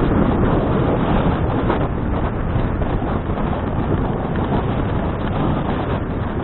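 Wind rushing steadily over an action camera's microphone during a bicycle ride, a dense low rumble with no distinct events.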